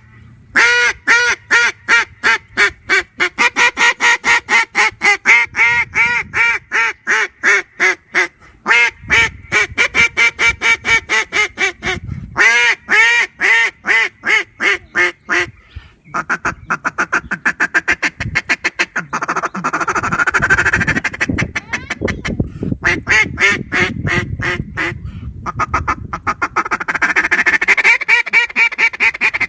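Fat Lady Game Calls D2D single-reed duck call blown by mouth, giving long strings of quacking notes broken by short pauses. From about the middle on, the notes come faster and closer together in rolling runs.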